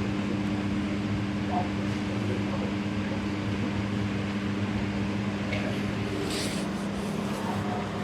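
A steady machine hum with two unchanging tones over background noise, and a short hiss about six seconds in.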